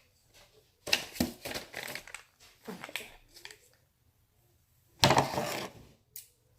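Crinkling and clattering of craft supplies being handled, in short spells with sharp clicks; the loudest spell comes about five seconds in.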